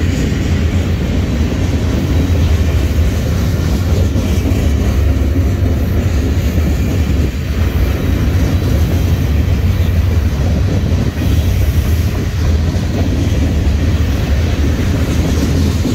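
Freight cars of a BNSF mixed freight train, open-top gondolas and rail-loaded flatcars, rolling past: a steady, deep, loud noise of steel wheels on the track.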